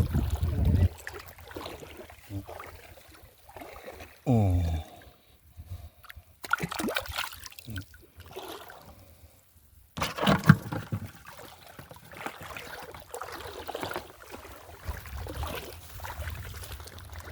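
Sea water sloshing and trickling, uneven, with louder stretches near the start and about ten seconds in. A short falling tone comes about four seconds in.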